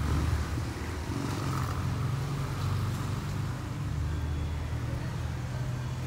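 Low, steady rumble of a motor vehicle engine idling close by, with faint street noise above it.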